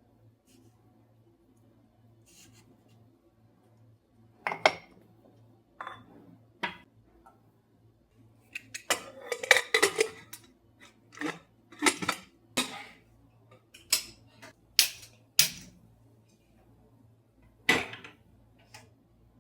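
Kitchen utensils and dishes clinking and knocking, with irregular sharp strikes that bunch into a busy clatter about halfway through.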